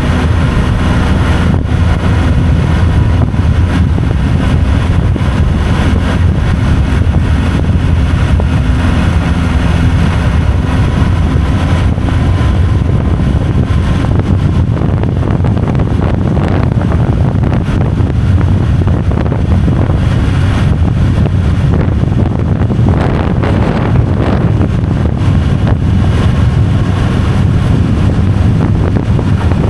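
Steady road and wind noise from a moving vehicle: a loud, even low rumble with wind on the microphone.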